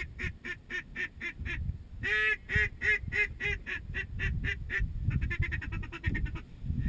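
Duck quacks, most likely a hunter's mallard call: a long run of evenly spaced quacks, about four or five a second. After about five seconds it breaks into a quicker, softer run of short notes, then the full quacks start again at the end.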